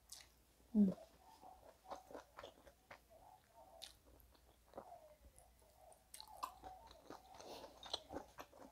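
Quiet, close-miked chewing of a mouthful of rice and meat eaten by hand, with small wet clicks of the mouth and a short hum from the eater about a second in.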